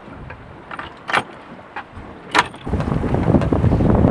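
A few sharp clicks and knocks on board a sailboat, then, about two and a half seconds in, loud wind buffeting the microphone starts suddenly and keeps on.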